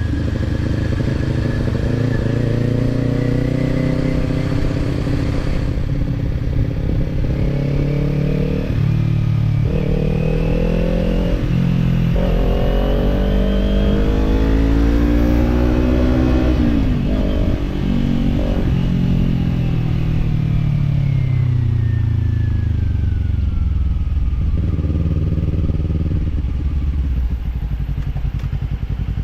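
Kawasaki parallel-twin motorcycle engine accelerating hard, with quick upshifts about nine to twelve seconds in and the pitch climbing after each shift. About halfway through the rider rolls off the throttle and the revs fall away for several seconds, then the engine runs steady at low revs.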